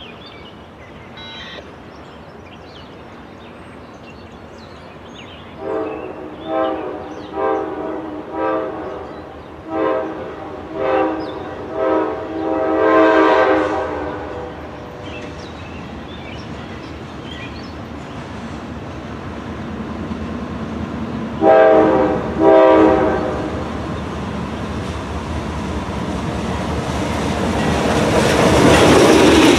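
Freight locomotive air horn sounding a string of short toots that ends in a longer blast, then two more short toots several seconds later. The train's rumble grows steadily louder toward the end as it draws closer.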